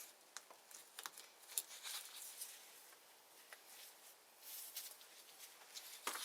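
Faint, scattered clicks and light taps, several in the first couple of seconds, with a soft rush of hiss about four and a half seconds in.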